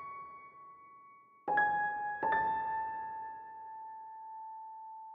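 Slow, sparse piano music. A couple of single notes are struck about a second and a half in and left to ring out.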